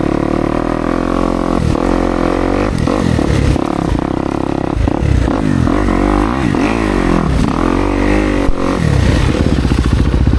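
Kawasaki KX250X dirt bike's single-cylinder four-stroke engine being ridden on trail, its revs rising and falling again and again with throttle changes, with some clatter.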